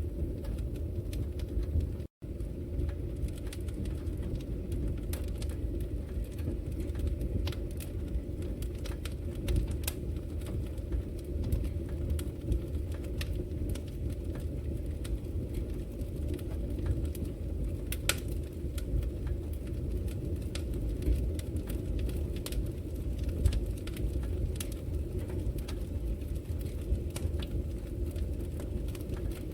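Wood fire in a fireplace crackling: scattered sharp pops and snaps over a steady low rumble of burning logs. The sound cuts out for an instant about two seconds in.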